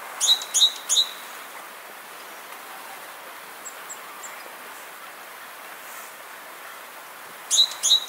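A small bird calling: three short, sharp, high chirps in quick succession at the start and two more near the end, with a few faint chirps between, over a steady background hiss.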